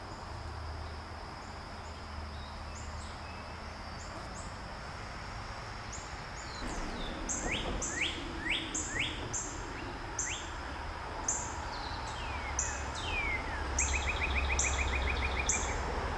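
Songbirds calling: from about six seconds in, many short high chirps and several quick descending notes, with a rapid trill near the end. Under them runs a steady high insect drone and a hiss of outdoor background noise.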